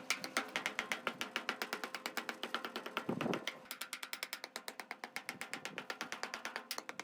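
Rapid, very even clicking, about eight clicks a second, with one heavier thud about three seconds in.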